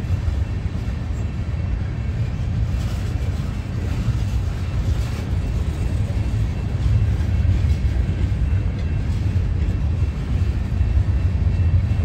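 Steel gondola cars of a freight train rolling past, a steady low rumble of wheels on rail that grows a little louder in the second half.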